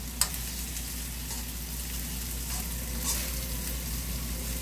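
Oil sizzling steadily around chicken wings frying in a pan, with rice being stirred and scraped in a second pan of hot oil. A sharp knock of the stirring utensil on the pan comes shortly after the start, and there are a few lighter taps later.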